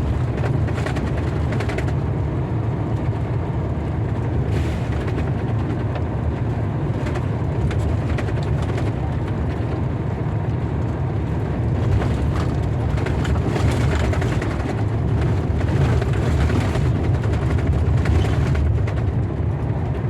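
Steady low rumble of a car driving, heard from inside the cabin, with faint scattered ticks over it.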